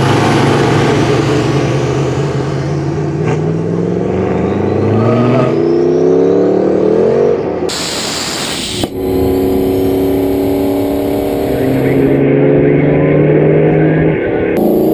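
Turbocharged LS V8 race car accelerating hard, its pitch climbing in steps through the gear changes. About eight seconds in, the sound cuts abruptly to a loud rushing noise, then to the engine running at a steadier pitch.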